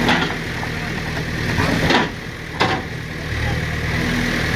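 JCB's diesel engine running steadily. It dips briefly about halfway through, between sharp knocks at about two and two and a half seconds in, with another knock at the start.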